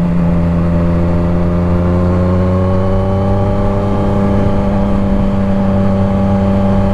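Motorcycle engine running under load up a hill, its pitch rising slightly a few seconds in and then holding steady.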